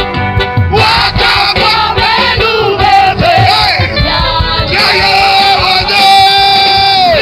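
Live gospel worship music: voices singing over a band with a steady drum beat. Long held notes slide down near the start and again near the end.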